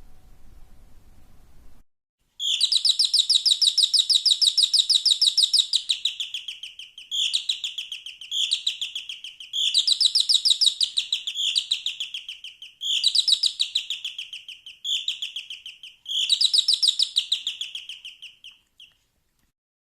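A doorbell with a high, rapidly pulsing chirp rings seven times in bursts of uneven length, some brief and some held for several seconds. Each burst drops in pitch as it ends.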